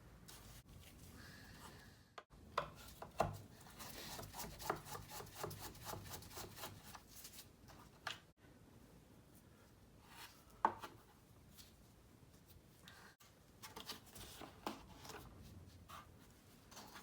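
Small clicks, knocks and scraping from hands and tools working on scooter head-panel parts, with a run of quick strokes, about four a second, a few seconds in.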